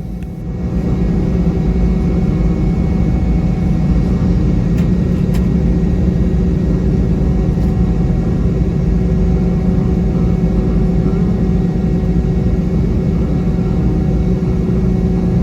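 Boeing 717's rear-mounted Rolls-Royce BR715 turbofan engines heard from inside the rear cabin: a loud, steady drone with a deep hum and a few thin whining tones, growing louder in the first second.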